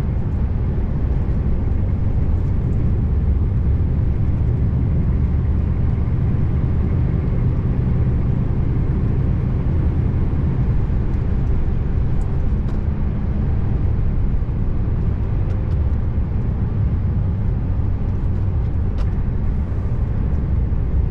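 Scania R590 V8 truck engine running steadily under way, a constant low drone with road noise and no change in revs.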